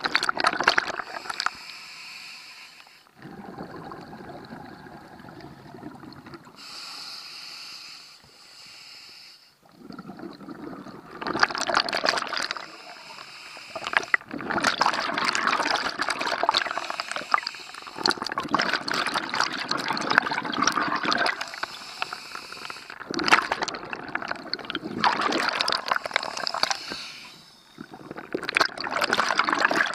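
Scuba diver breathing through a regulator underwater: short hissing inhales alternate with long rushes of exhaled bubbles, several breaths in a row.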